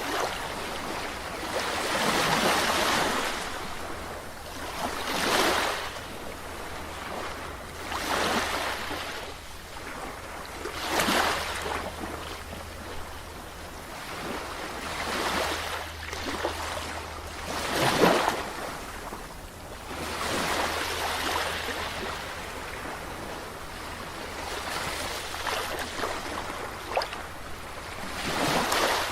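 Ocean surf: waves breaking and washing in, a swell of rushing noise every two to four seconds. A faint steady low rumble lies underneath and fades out about two-thirds of the way through.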